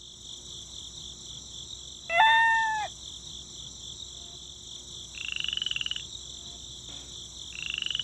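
Outdoor animal ambience: a steady high insect-like buzz, a short pitched call about two seconds in, and two rapidly pulsed croaks later on.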